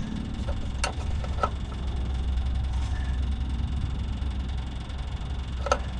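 Electric fuel pump running with a steady low hum while priming a Detroit 6-71 diesel, with a few light metallic clicks.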